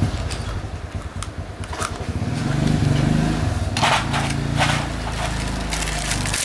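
Four-stroke motorbike engine starting and running, its revs rising about two to three seconds in.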